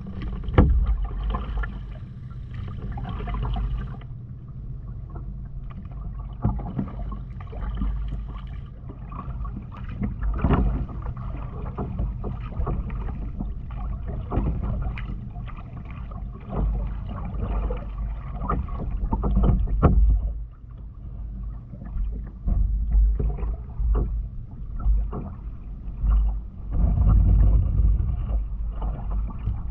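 Kayak on the water: paddle strokes and splashes, with scattered sharp knocks over a steady low rumble.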